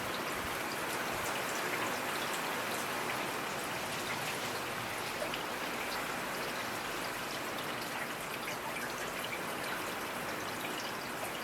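Steady rainfall, an even hiss of rain with many small drops ticking sharply on a surface.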